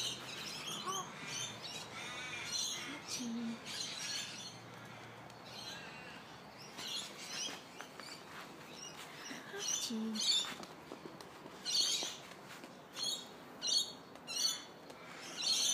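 Birds chirping: a series of short high calls, coming more often and louder in the last few seconds.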